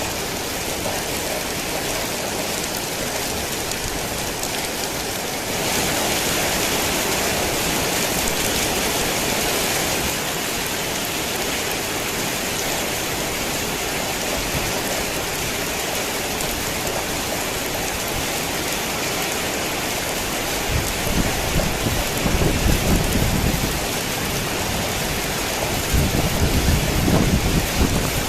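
Steady heavy rainfall, a dense even hiss that grows louder for a few seconds about six seconds in. Two low rumbles of thunder swell up in the last third, the second near the end.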